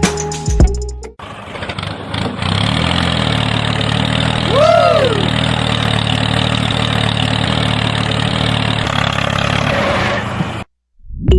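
A motor running steadily with a low hum. A brief rising-then-falling tone sounds about halfway through, and the running cuts off abruptly near the end.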